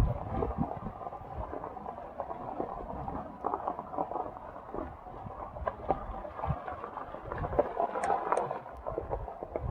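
Rainwater dripping and splashing in many irregular small drops.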